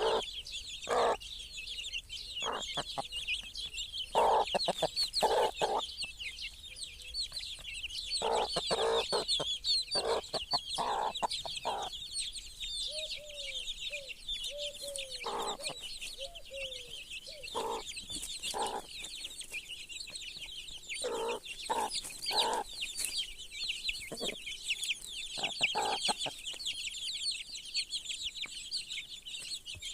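Mother hen clucking in short low clucks, with a few soft falling calls near the middle, while her chicks peep constantly in a dense, high chorus.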